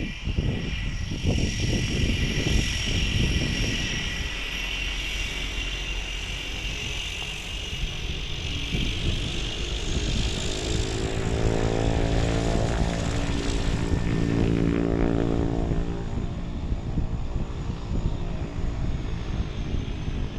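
Cessna Caravan's single turboprop engine running: a steady high turbine whine, with a low propeller drone swelling in about halfway through and staying loud until the sound cuts off suddenly.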